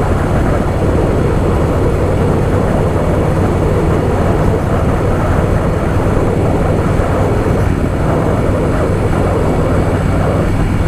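Harley-Davidson Softail Fat Boy's V-twin engine running steadily at cruising speed, with the rush of wind and road noise over it.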